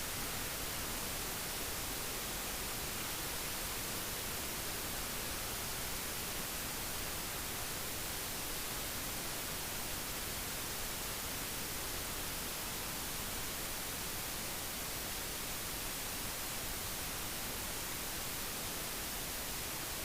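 Steady, even hiss of wind rushing over a motorcycle rider's helmet microphone while riding at road speed; no engine note stands out.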